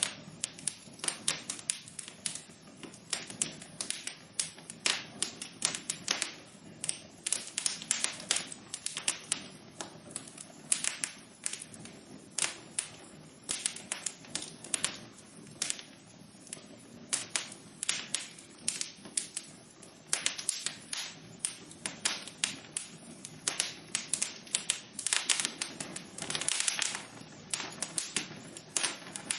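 Wood fire burning in a fireplace: dense, irregular crackles and pops, several a second, over a soft steady hiss.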